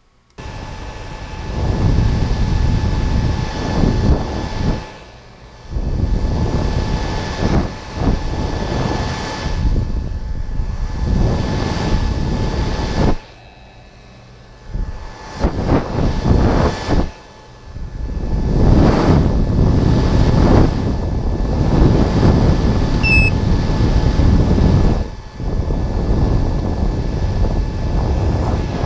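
Loud motor noise: a steady whine under a whooshing rush that surges and drops away several times, quietest a little before the middle.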